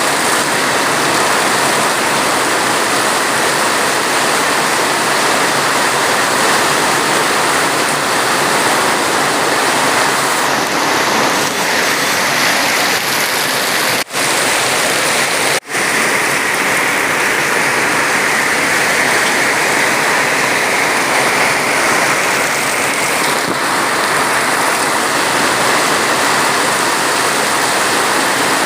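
Steady, heavy rain, a dense even hiss, that cuts out for an instant twice about halfway through.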